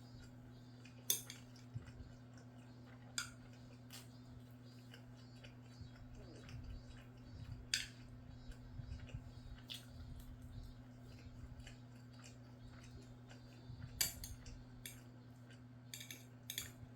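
Eating utensils clinking against a bowl now and then while eating rice and scrambled egg, several sharp separate clinks over a steady low hum.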